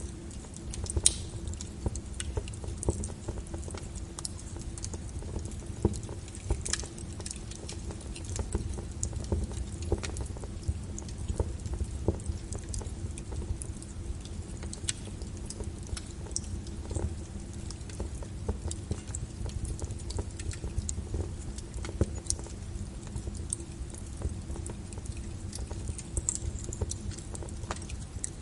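Burning wood in a fireplace crackling, with irregular sharp pops and snaps scattered throughout over a low steady rumble; the loudest pop comes about a second in.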